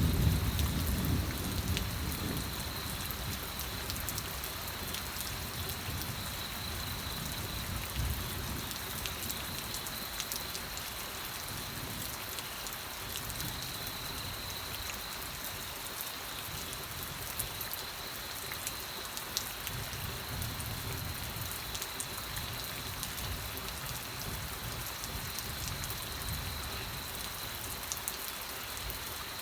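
Steady rain falling, an even hiss spattered with drops. A low rumble of thunder dies away in the first couple of seconds.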